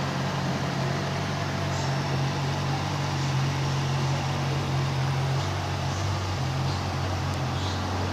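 2008 Yamaha R6's inline-four engine idling steadily after being revved.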